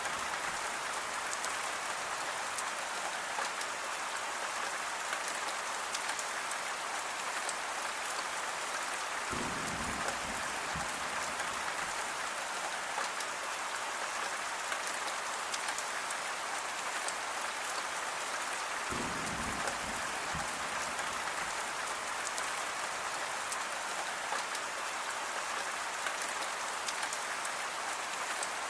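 Steady rain falling, an even hiss with individual drops ticking through it. A brief low rumble swells up twice, about a third and two-thirds of the way through.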